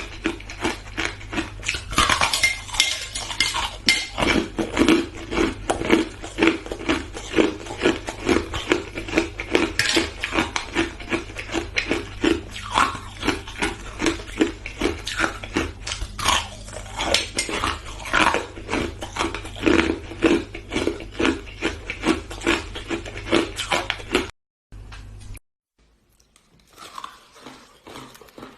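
Close-miked chewing of crunchy crushed ice: rapid crisp crunches, two or three a second. It cuts out briefly near the end and resumes fainter.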